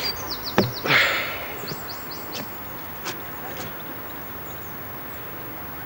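Short high bird chirps over a steady outdoor hiss, with a loud noisy burst about a second in.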